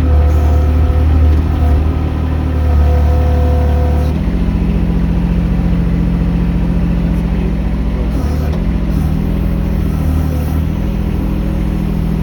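Mini excavator's diesel engine running steadily under hydraulic load; the engine note shifts about four seconds in and dips briefly near eight seconds as the load changes.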